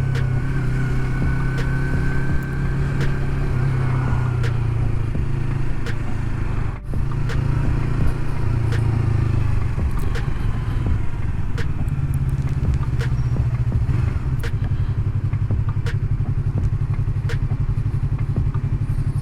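Yamaha MT-03's parallel-twin engine running at low revs in slow traffic, a steady low engine note that briefly dips about seven seconds in.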